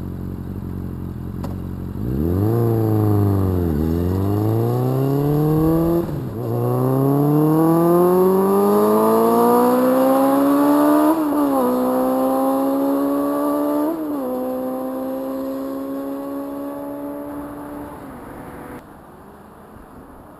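Suzuki GSX-F 600 inline-four motorcycle engine and exhaust idling briefly, then accelerating hard through the gears: the revs climb and drop sharply at each upshift, about four times. After the last shift it holds a steady cruise and fades away.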